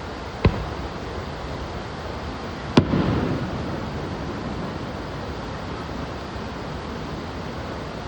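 Two firework shells bursting: a sharp bang about half a second in, then a louder one nearly three seconds in whose low rumbling echo dies away over a second or so. A steady rushing noise runs underneath.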